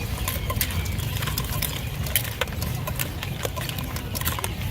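Busy market stall ambience: a steady low rumble under frequent, irregular sharp clicks and clatter.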